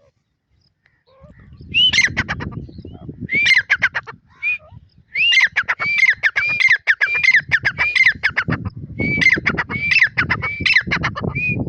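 Francolin (teetar partridge) giving its loud call. It starts about two seconds in, in several phrases of rapid clicking notes running into repeated rising-and-falling whistled notes.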